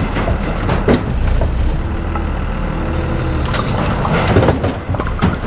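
Forklift engine running steadily while loading a crate of firewood, with a few sharp knocks, about a second in and again near the end.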